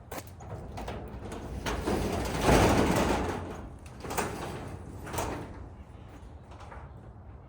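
2005 Land Rover Freelander cold start: a few clicks, then the engine cranks and catches about two seconds in, its revs flaring loudly before dropping back toward a steady idle. Two more knocks follow a couple of seconds later.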